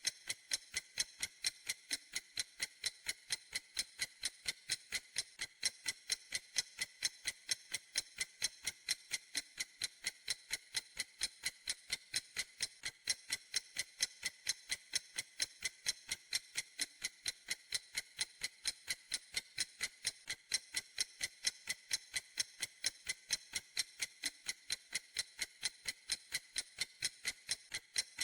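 A clock ticking steadily: crisp, high, evenly spaced ticks, a few per second, with no variation in pace or strength.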